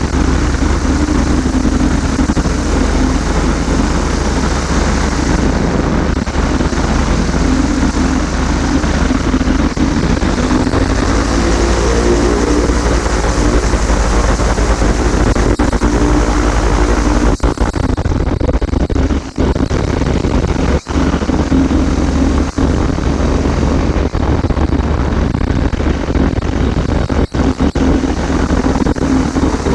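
Microlight trike's engine and propeller running steadily under wind noise. The engine pitch shifts around the middle, and the sound cuts out briefly a few times in the second half.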